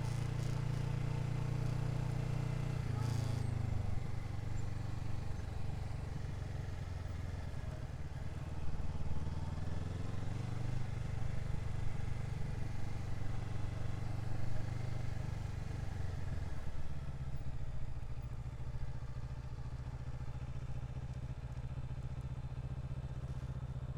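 Motorcycle engine running under way, its pitch dropping about three seconds in and changing again a couple of times later.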